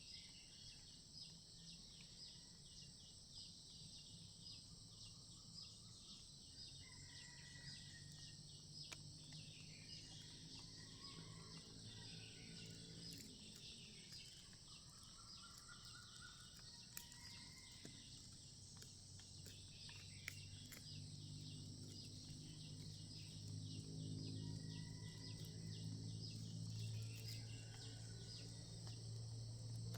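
Faint forest ambience: a steady high-pitched insect chorus with a regular pulse, and scattered short whistled bird calls, some gliding down in pitch. A low hum with several even tones underneath grows louder in the second half.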